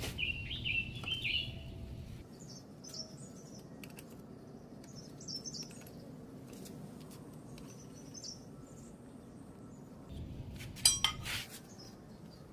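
A small bird chirping in short repeated phrases, loudest in the first second or so, with a brief metallic clatter of clicks about eleven seconds in.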